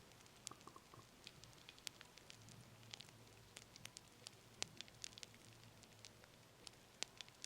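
Wood fire crackling quietly: irregular sharp pops and snaps over a faint hiss, with the loudest snaps a little past the middle and near the end.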